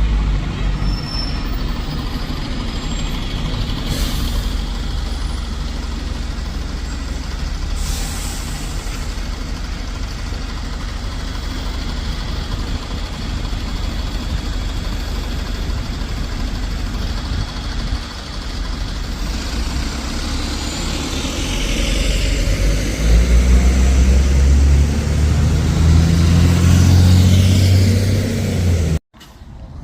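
Diesel bus engine running with a steady rumble, with two short hisses of air about four and eight seconds in. About two-thirds of the way through a bus engine grows much louder under power, then the sound cuts off abruptly near the end.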